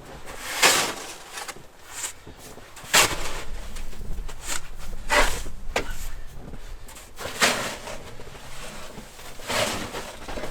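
Snow crunching in short, noisy bursts, about one every two seconds, five in all.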